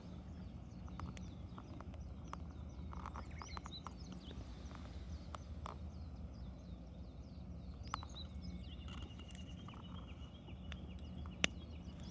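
Wood campfire crackling, with scattered sharp pops, the loudest near the end, over a steady low rumble of burning.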